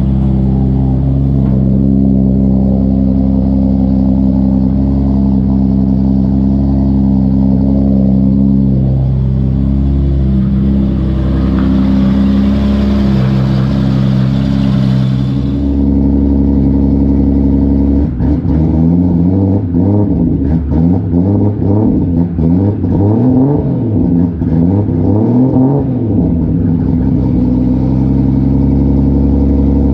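Turbocharged Toyota Supra 2JZ-GTE inline-six running at idle with its idle air control valve capped off, holding a reasonable idle. A hiss comes in for a few seconds midway, and later the engine's pitch wavers up and down for several seconds before settling again.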